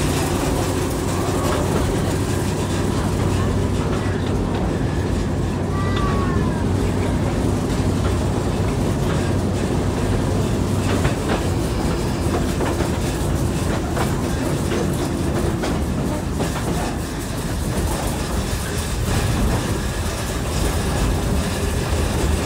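Small narrow-gauge train running: a steady low drone from the locomotive ahead, with the rattle and irregular clicks of the open passenger car's wheels over the rail joints.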